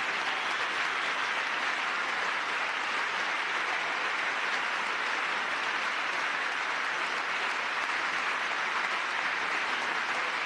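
Large audience applauding steadily, with no break.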